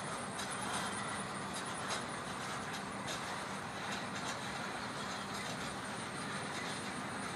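A CSX freight train's hopper cars rolling past, with the steady noise of their wheels running on the rails.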